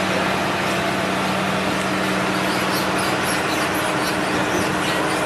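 Helicopter running, a steady, loud mechanical hum over a dense hiss of engine and rotor noise.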